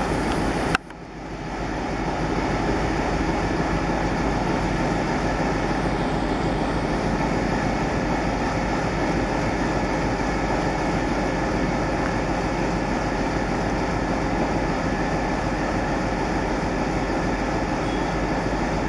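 Steady rumble of a train running through a station. Its level drops suddenly about a second in and builds back up over the next second, then holds even.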